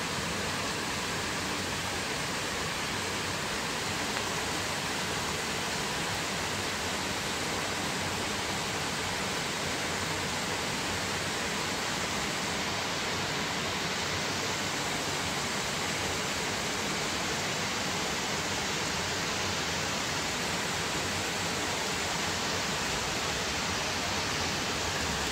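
Heavy downpour of rain, a steady, even rushing hiss that holds unchanged throughout.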